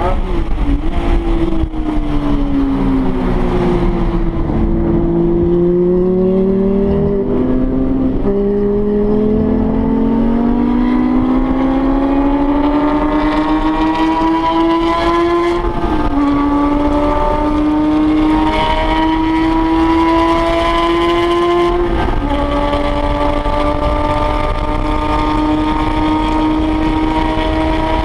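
Porsche 911 GT3 RS naturally aspirated flat-six heard inside the cabin, driven hard on track. The engine note falls in the first few seconds, then climbs steadily under acceleration, dropping sharply at two upshifts, about halfway through and about two-thirds of the way through, and rising again after each.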